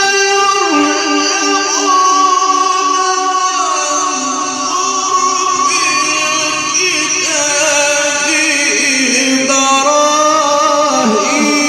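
Male Quran reciter's voice drawing out a long melodic phrase in the ornamented mujawwad style, holding and sliding between sustained notes, amplified through a sound system.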